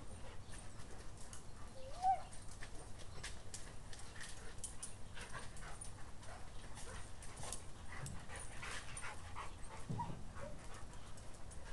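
A dog gives one short whine about two seconds in, amid many light clicks and scuffles as the dogs move about.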